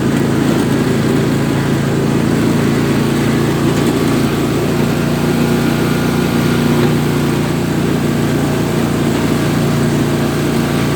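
Riding lawn tractor's small engine running steadily at an even speed while the tractor drives along, towing a trailer.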